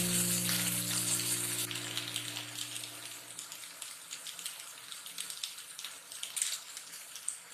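Sliced carrot, capsicum and onion sizzling in oil in a frying pan, a steady crackling hiss. Background music fades out about three seconds in.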